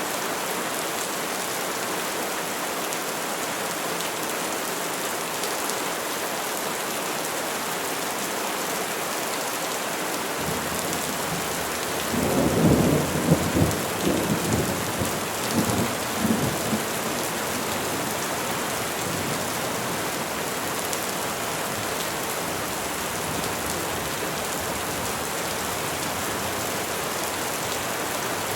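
Steady rain falling on trees, with a roll of thunder rumbling for about five seconds around the middle.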